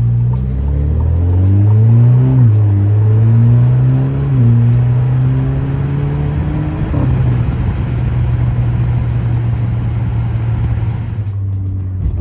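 Muffler-deleted 2017 Alfa Romeo Giulia's turbocharged four-cylinder accelerating hard through the gears. The engine note climbs and drops at each upshift, about two and a half and four and a half seconds in, then climbs once more and settles into a steady cruise.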